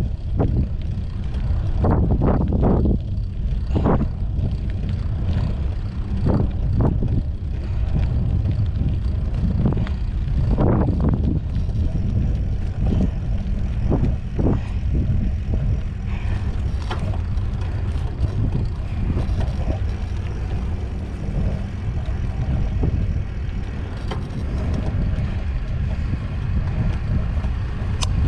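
Wind buffeting the microphone: a heavy, steady low rumble, with brief rustles and knocks scattered through the first half.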